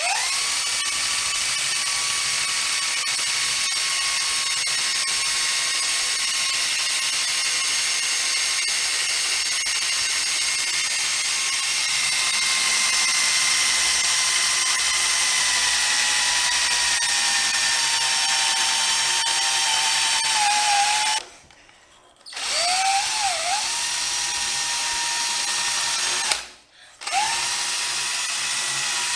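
DeWalt power drill running steadily with a high whine, working on the surface of a glass vase. It sags a little in pitch under load, stops twice in the last third and spins back up each time.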